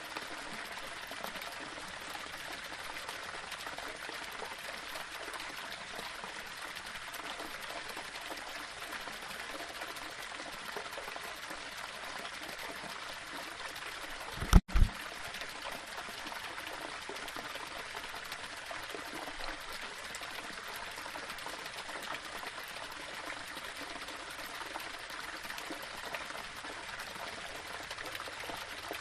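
Small waterfall: water running and splashing over rocks in a steady, even rush. About halfway through, a brief loud low thump with a split-second dropout breaks the flow.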